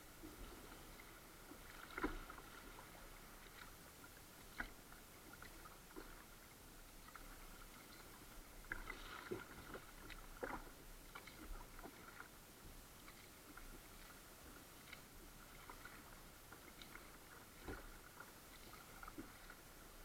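Quiet kayak paddling: soft paddle splashes and water dripping, with scattered small knocks and ticks, the sharpest about two seconds in.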